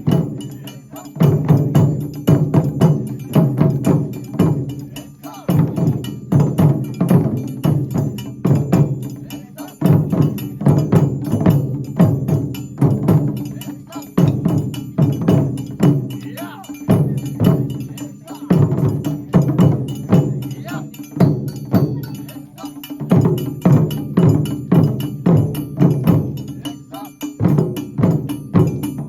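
Japanese taiko drum ensemble playing rapid, driving strokes in repeated phrases of about four seconds, each followed by a brief pause.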